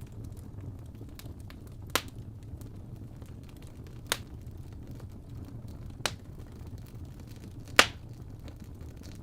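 Logs burning in a fireplace: a steady low rumble of flame under a scatter of small crackles, with four loud sharp pops about two seconds apart, the last one the loudest.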